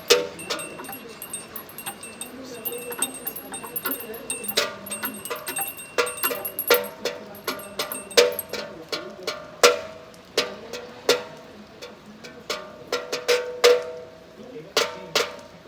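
Small belfry bells rung by hand: quick, irregular strokes, sometimes several a second, each ringing out, over the steady hiss of rain.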